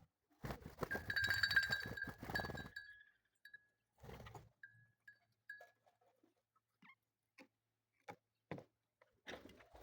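A bird calling in short notes repeated at one pitch over a rustling noise during the first few seconds, then scattered soft taps.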